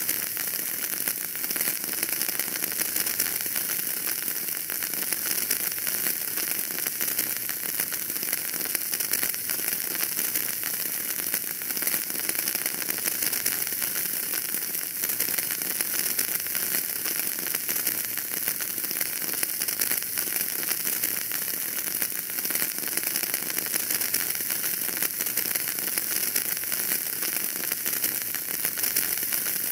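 Wood fire burning in a fireplace, crackling steadily over a constant hiss.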